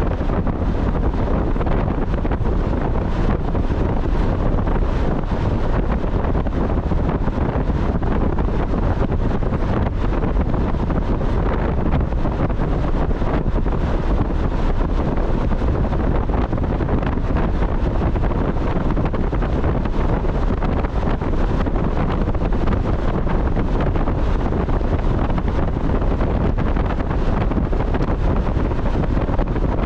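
Steady wind rushing over the microphone, mixed with road and engine noise from a Mazda Miata driving at a constant pace, loud and unchanging throughout.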